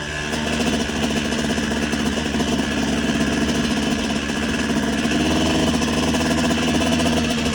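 Motocross bike engine running steadily at low revs, close to an idle, with only small swells in level.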